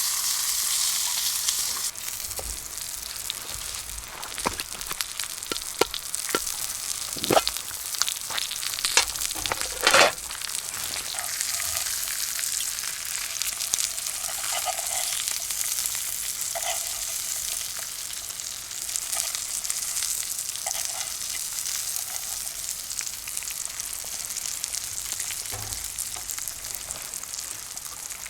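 Steak sizzling in a pan over a bonfire: a steady frying hiss, loudest for the first two seconds, with scattered pops and clicks and a few louder sharp pops about a third of the way in.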